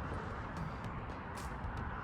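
Steady hiss and low rumble of traffic on a nearby highway, with a few faint ticks.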